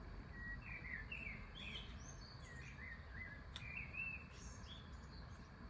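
A songbird singing in the background: a quick run of short chirps and warbles that stops near the end, over a steady low outdoor rumble.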